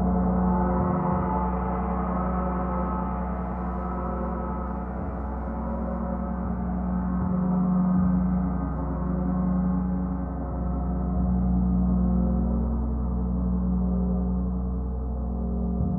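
Large gong played in a sound bath: a continuous wash of many overlapping ringing tones, kept going without a break. A strong low hum within it swells and fades every few seconds.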